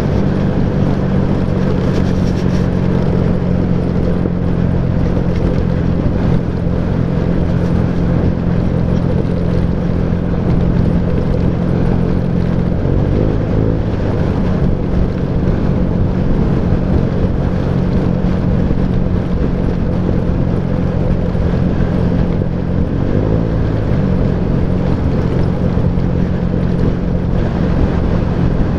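Motorcycle engine running at a steady cruising speed, with road and wind noise. The engine note briefly drops and recovers twice, about thirteen seconds in and again about ten seconds later.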